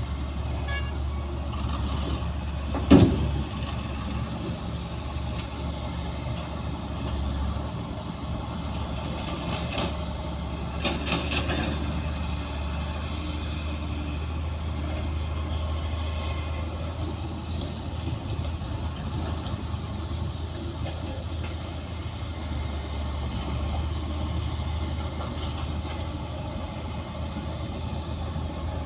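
Heavy diesel earthmoving machinery running at a steady low drone, with one loud sharp knock about three seconds in and a few lighter knocks around ten to eleven seconds.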